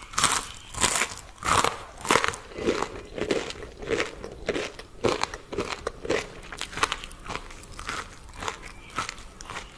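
Close-miked chewing of crispy fried food, with repeated crunches about every half second that grow lighter and quicker toward the end.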